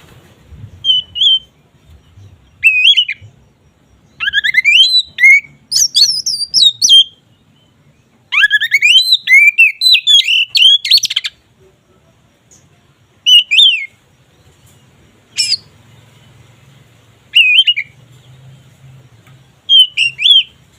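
Oriental magpie-robin (kacer) singing in full, open song: bursts of varied loud whistles, rising sweeps and trills. It sings two long runs in the first half, then short phrases every couple of seconds.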